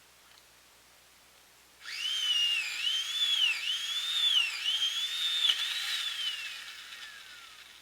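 A high, clear whistle starting about two seconds in, its pitch swooping up and down about once a second, then ending in a long falling glide that fades out.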